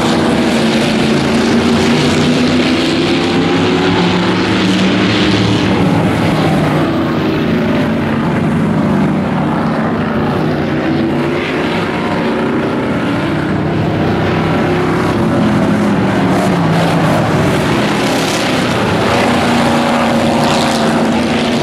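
Engines of dirt-track racing trucks running hard during a heat race, with several engine notes overlapping and their pitch rising and falling throughout.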